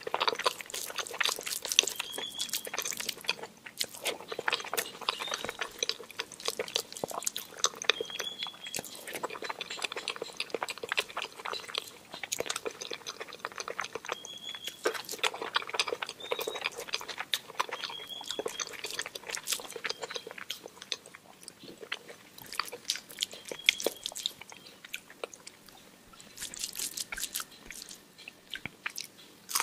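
Mouth sounds of eating rice, dal, mashed potato and omelette by hand: irregular chewing, wet smacks and small crunches, with fingers working rice on the plate between bites.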